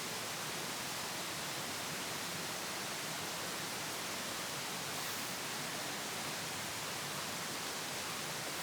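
A steady, even hiss with no distinct events, at a constant level throughout.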